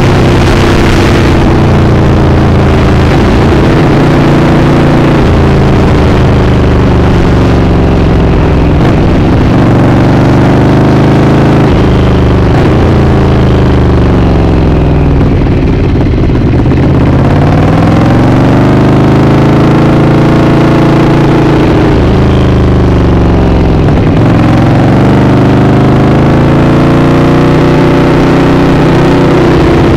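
2018 Ducati Panigale V4's 1103 cc V4 engine under way, heard from the rider's seat. The engine pitch falls through the first half as the bike slows, bottoms out about halfway, rises as it accelerates, dips briefly about two-thirds through, then climbs again.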